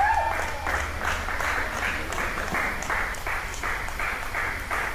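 Wrestling crowd clapping in rhythm, about three claps a second, after the match's finish. A brief voice call or shout is heard at the very start.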